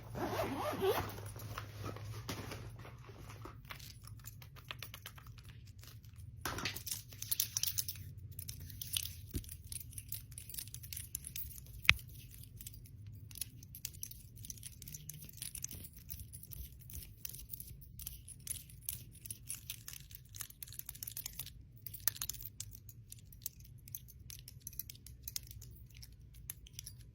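Bangles and rings clicking and clinking in a busy, irregular stream of small crackly clicks, with one sharp, louder click about twelve seconds in.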